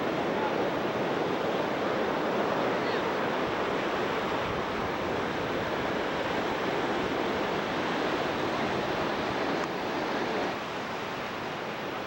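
Ocean surf washing steadily on a beach, easing a little about ten and a half seconds in.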